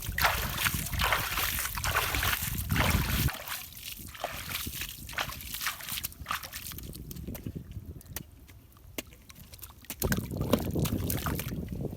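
River water sloshing and splashing, heavier for the first three seconds and again near the end, with scattered small clicks in the quieter stretch between.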